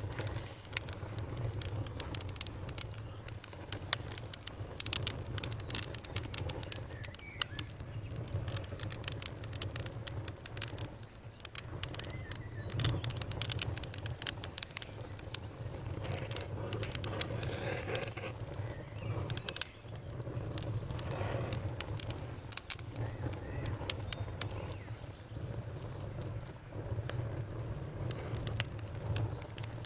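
Campfire crackling, with frequent sharp pops and snaps of varying loudness over a low, steady rumble.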